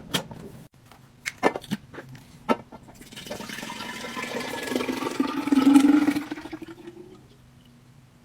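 A few sharp clicks and taps, then liquid poured into a container for about four seconds, its pitch rising as the container fills before the pour stops.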